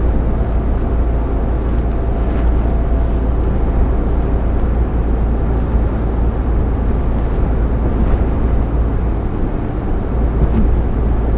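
Steady low rumble of a lorry's engine and tyres, heard from inside the cab while cruising on the motorway.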